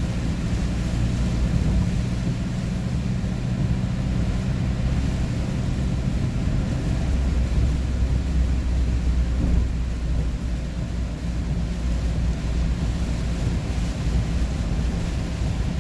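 Vehicle driving at highway speed, heard from inside: a steady low engine drone under road and wind noise.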